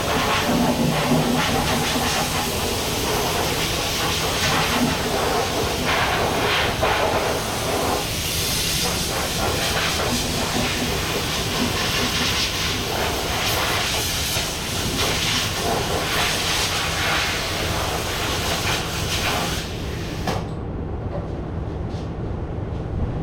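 Power sander running steadily against 2K primer on a semi-truck axle housing, a dense hiss of sanding, cut off abruptly about three seconds before the end, leaving a quieter low hum.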